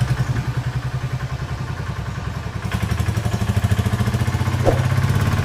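A small engine running with a steady, rapid pulsing beat, growing a little louder about three seconds in.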